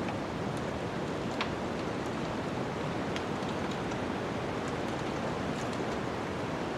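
Wood fire burning in a fireplace: a steady rushing noise with scattered small crackles and a sharper pop about a second and a half in.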